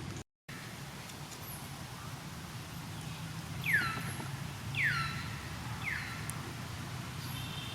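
Three short descending whistled animal calls, about a second apart, over a steady low hum.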